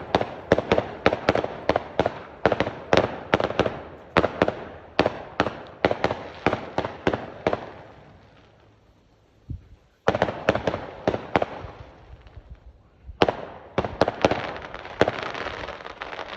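Fireworks going off: rapid runs of sharp bangs and crackles, several a second, die away about halfway through, then start again.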